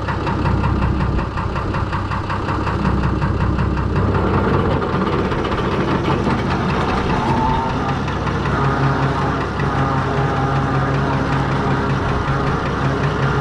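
Fordson Major tractor's swapped-in six-cylinder Perkins diesel engine running as the tractor sets off in second gear, its engine note changing about four seconds in.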